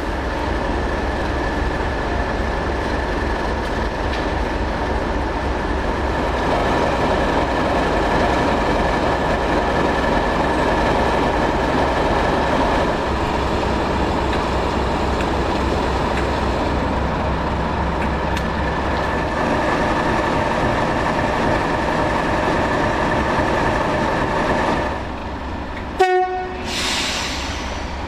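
Diesel train engine running steadily, with a constant tonal drone that grows louder about six seconds in. It drops away near the end, where an abrupt break is followed by a short, louder burst.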